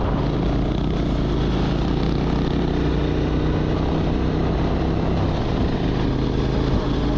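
Suzuki V-Strom 1000's V-twin engine running steadily while the motorcycle is ridden.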